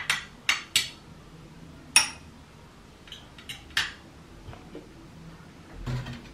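A series of sharp clinks and knocks of hard objects being handled, about eight in all, the loudest about two seconds in, followed by a duller thump near the end.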